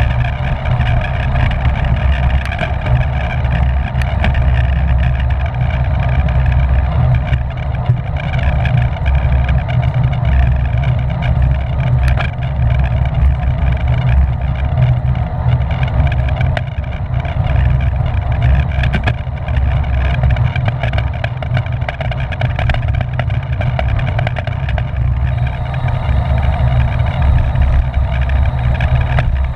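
Steady wind rushing over the microphone of a bike-mounted camera on a road bike ridden at race speed, a heavy low rumble with a fainter hiss above it.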